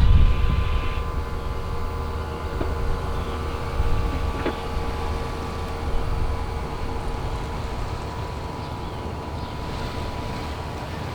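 Car wash equipment running: a steady mechanical hum over a low rumble, louder in the first second, with a single click about four and a half seconds in.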